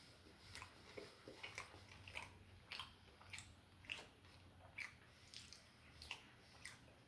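Close-miked chewing and biting of food, a run of irregular short clicks and crunches coming about once or twice a second over a faint low hum.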